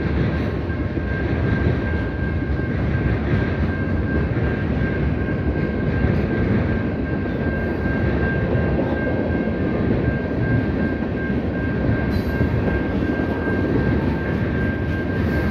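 Norfolk Southern freight train of covered hopper cars rolling through a grade crossing: a steady rumble and clatter of steel wheels on rail. Over it rings the crossing signal's bell, one steady high ring.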